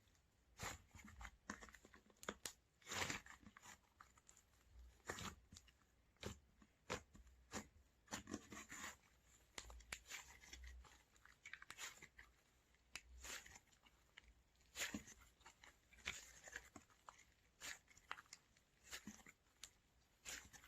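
Oreo slime being pressed, stretched and poked by hand, giving a quiet string of irregular sharp clicks, crackles and pops.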